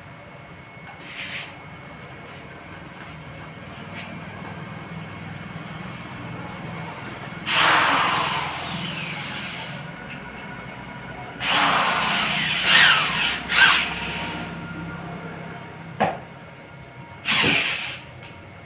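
Several short bursts of tool noise a few seconds apart, over a steady low hum.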